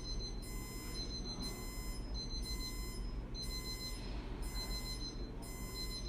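High-pitched electronic beeping, like an alarm, repeating about once a second over a steady low hum.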